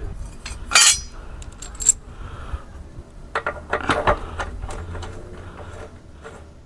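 Metal clinking and clattering as the lawnmower's blade bolt and blade are handled and taken off: a sharp clink about a second in, a few more near two seconds, and a cluster of clinks a little past halfway, then lighter ticks.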